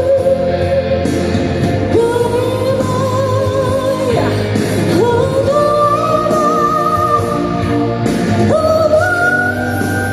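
Live pop band music: a long, wavering melody line held on sustained notes and sliding between pitches, over a steady band accompaniment.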